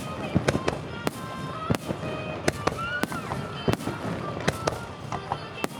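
Fireworks display: aerial shells bursting with sharp, echoing bangs about every half second, over a steady background of music.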